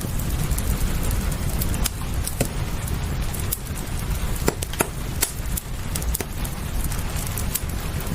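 Wood fire crackling, with irregular sharp pops and snaps over a steady low rumble and the even hiss of rain.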